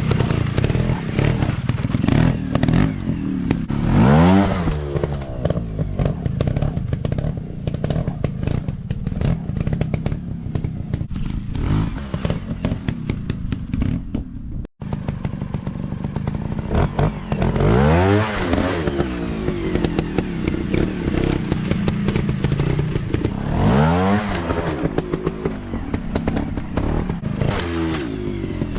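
Dirt bike engines revving up and easing off in repeated surges, with clatter and knocks throughout. The sound cuts out for an instant about halfway.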